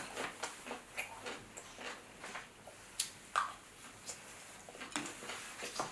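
Close-miked chewing of sausage: faint, irregular wet mouth clicks and smacks, with a few sharper clicks about three and five seconds in.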